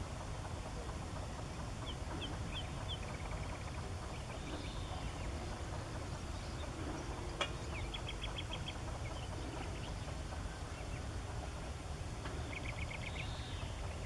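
Steady low rumble with a few runs of quick, high, faint bird chirps over it, each a short series of notes. There is a single sharp click about halfway through.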